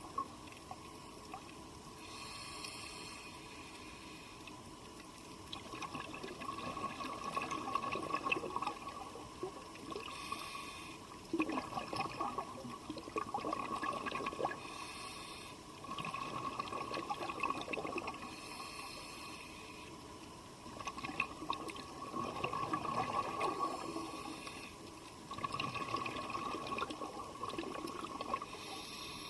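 Scuba diver breathing through a regulator underwater: a short hiss of inhalation, then a few seconds of bubbling exhalation, repeating about every four to five seconds.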